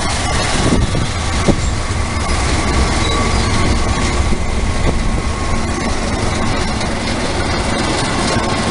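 Long-distance passenger train passing close by, its wheels rolling loudly and steadily over the rails with a couple of sharp clicks in the first two seconds.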